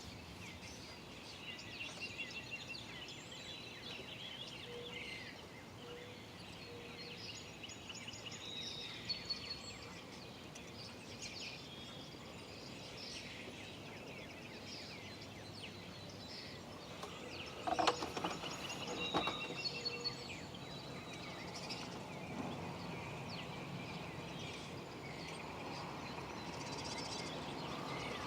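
Songbirds chirping and whistling, many short calls over a steady outdoor background. A couple of sharp knocks come about eighteen seconds in.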